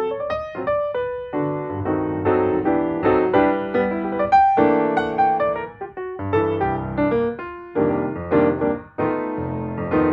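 Background piano music: a gentle melody with chords, notes struck and left to ring.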